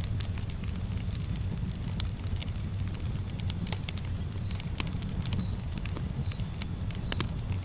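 Campfire burning: a steady low rumble with scattered sharp crackles and pops from the burning wood. From about halfway in, a faint short high chirp recurs roughly once a second.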